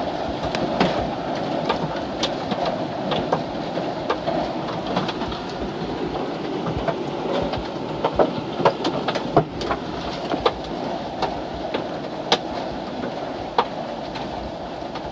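Hailstones and rain pelting a car's body: a steady patter with many irregular sharp knocks from the larger stones striking the metal.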